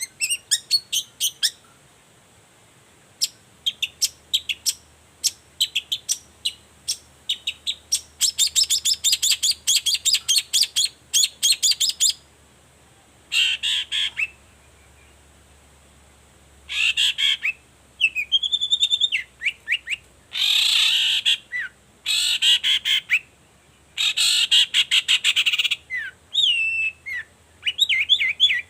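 Long-tailed shrike singing. It gives rapid runs of sharp, repeated chip notes, then harsh grating bursts mixed with short whistled notes, with brief pauses between phrases.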